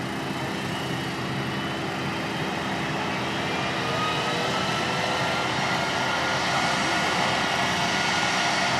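Jet engine running with a steady roar and a high whine, gradually growing louder.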